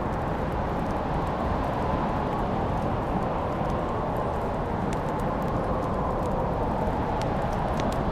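Wood fire burning in a fireplace: a steady low rushing of flames with scattered sharp crackles and pops.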